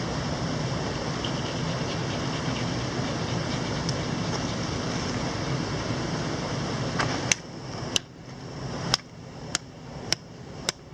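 Steady rush of a mountain stream, then about seven seconds in a series of sharp knocks, roughly one every half-second to second: wood being struck in an attempt to split it.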